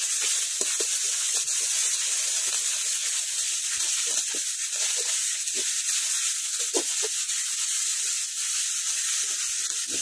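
Sliced onions and spices sizzling in hot oil in a metal karai, stirred with a metal spatula that scrapes against the pan in short irregular strokes.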